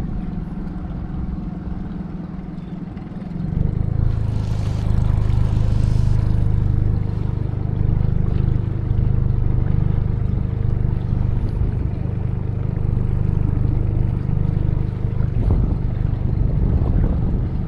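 A small boat's outboard motor running steadily at low trolling speed. About three and a half seconds in its hum grows louder and then holds.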